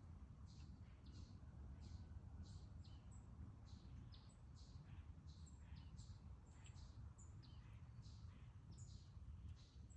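Faint, quick high chirps from small birds, several a second and irregular, over a low steady background rumble.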